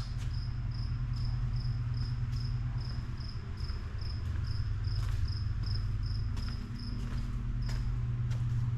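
A cricket chirping in a steady rhythm, about two and a half chirps a second, over a steady low hum.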